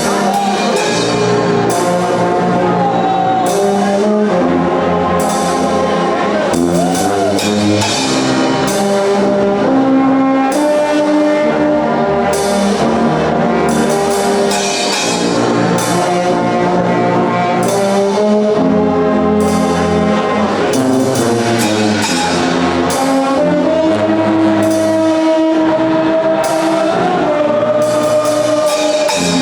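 A Guggenmusik band plays: loud brass with held notes and sliding glides, over a steady beat of drums and cymbals.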